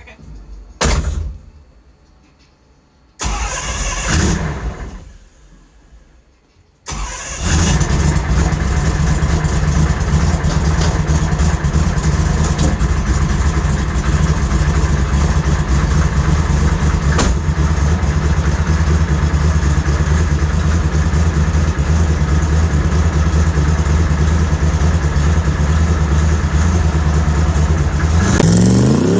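Twin-turbo Dodge Charger Hellcat drag car's V8 engine being started: two short bursts with pauses, then it catches about seven seconds in and runs steadily at a deep idle. Near the end it revs with a rising pitch.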